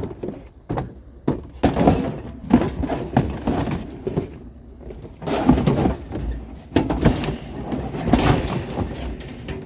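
Scrap items being handled and loaded: an irregular string of clanks, thumps and rattles, with several sharp knocks.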